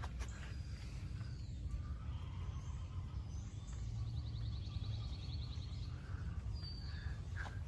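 Birds chirping and whistling in the background, with short rising notes and, in the middle, a fast trill of about ten notes a second lasting about two seconds, over a steady low rumble. A couple of sharp clicks come near the start and near the end.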